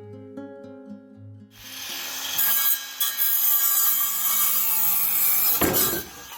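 A saw cutting through wood, starting about a second and a half in and running steadily for about four seconds before stopping. Plucked guitar music plays before it.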